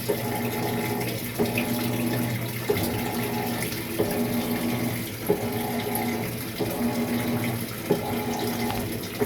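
Maytag MVWX655DW1 top-load washer on its tub-clean cycle, water running into the tub over a steady hum. A short knock repeats about every 1.3 seconds.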